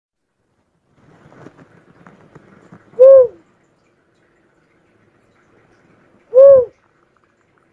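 Cuckoo-dove (uncal) calling: two single hooting notes about three and a half seconds apart, each short and slightly arched in pitch. Faint crackling comes before the first note.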